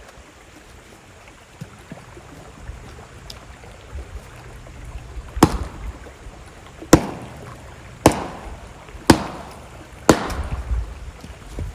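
Wood being chopped: five sharp chopping strikes, about one a second, over the steady sound of a river.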